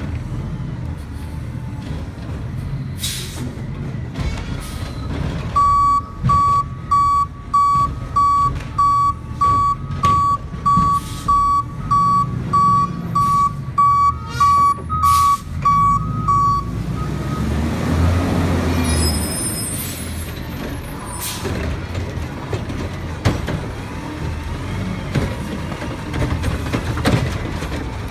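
Garbage truck's diesel engine running, its reversing alarm beeping steadily for about ten seconds as it backs up, followed by a short hiss of air.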